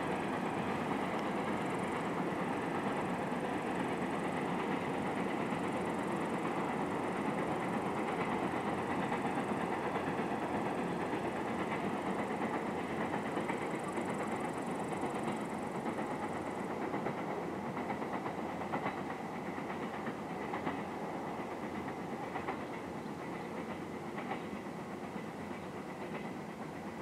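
Freight train hauled by a TEM7 diesel locomotive rolling away along the track: a steady rumble of wagon wheels on the rails that slowly fades. From about two-thirds of the way in, the clicks of wheels over rail joints stand out.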